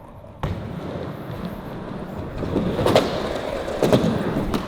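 Skateboard wheels rolling on concrete, growing louder. There is a knock about half a second in and a few sharp clacks of the board near the end.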